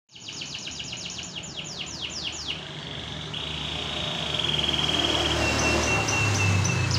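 Domestic canary singing: a fast string of downward-sweeping whistled notes, about five a second, then a long rolling trill and a run of short high notes.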